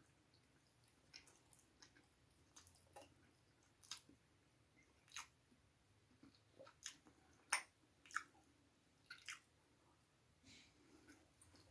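Close-miked mouth sounds of someone eating: soft, irregular wet clicks and smacks of chewing, with one sharper smack about two-thirds of the way through.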